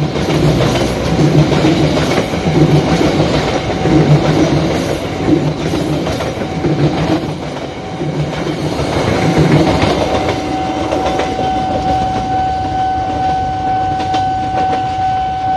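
Passenger train of coaches passing at speed, its wheels clattering rhythmically over the rail joints about once a second; the clatter thins out after about ten seconds as the last coaches go by. A steady high tone sounds from about ten seconds in.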